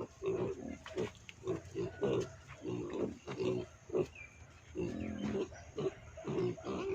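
Animal grunting: quick short grunts, several a second, with one longer drawn-out call about five seconds in.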